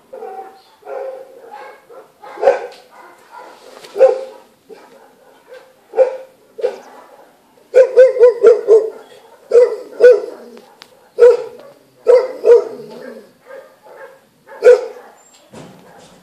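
Feral cat giving a long irregular series of short, loud, harsh calls, yowls broken up with hisses and spits, with a quick run of four or five about eight seconds in.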